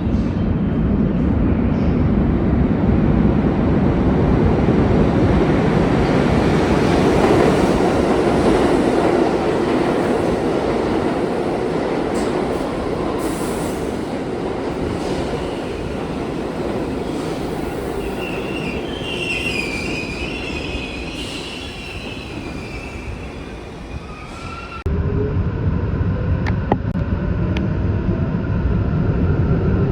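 Subway train running on its rails with a loud rumble that eases off, then its wheels squeal in a high-pitched whine for several seconds. About 25 seconds in the sound cuts abruptly to a steadier train rumble.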